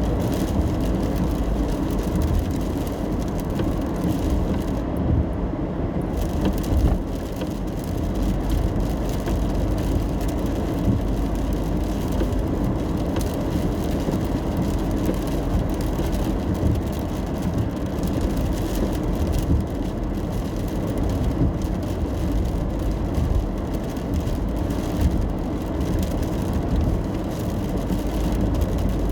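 Inside a car driving in the rain: a steady low road and engine rumble under a hiss of tyres on wet road and rain on the car. The hiss thins out briefly about five seconds in.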